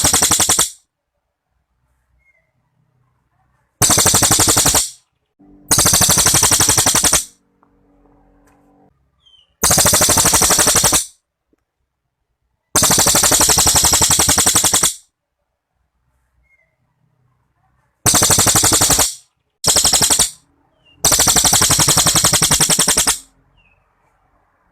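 A cililin songbird singing long, loud, very rapid rattling trills, each lasting one to two seconds. There are about eight of them, with short silent gaps in between.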